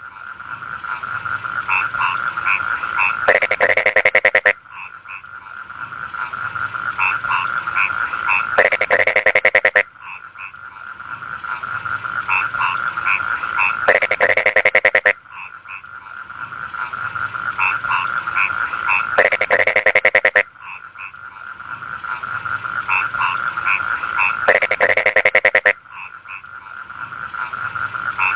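Frogs in a rice field croaking in a chorus: a steady ringing call with short croaks over it, which builds up and is broken every five seconds or so by a loud, rapid rattle of pulses. The cycle repeats evenly, like a looped recording.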